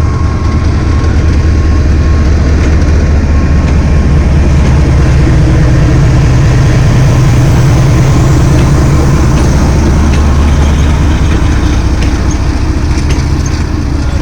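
Diesel-electric locomotive GEU-40-9041 working hard as it pulls the train out of the station: a loud, steady, deep engine rumble that swells towards the middle and eases slightly near the end.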